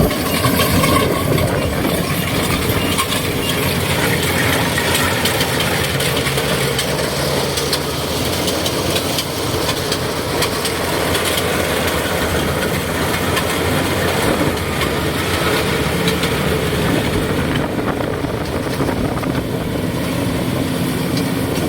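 Kubota DC70G combine harvester running steadily under load, its diesel engine and harvesting machinery making a dense, even mechanical din.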